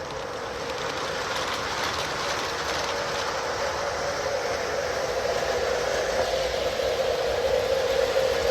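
O-scale Lionel model train, two Lion Chief Dash 8 diesel locomotives pulling tank cars, running along the track: a steady whirring hum of motors and wheels that grows gradually louder as the train comes closer.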